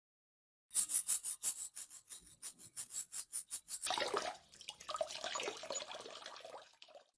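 Quick, even scrubbing strokes, about five a second, on a rusty binocular part for about three seconds, then a steady rush like water running from a tap for about three seconds.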